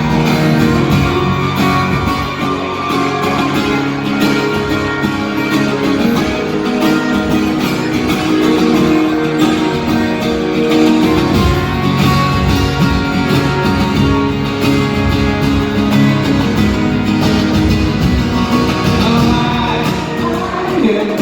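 Live acoustic rock band playing an instrumental passage, led by strummed and picked acoustic guitars.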